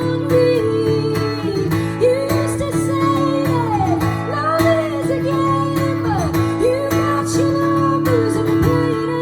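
Acoustic guitar strummed steadily under a woman's sung vocal melody, a live solo acoustic performance of a pop-folk song.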